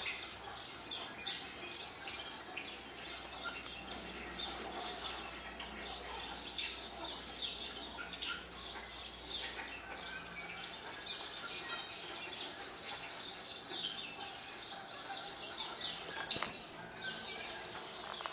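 Many small birds chirping and twittering in quick, overlapping calls, played from a bird video through a television's speakers.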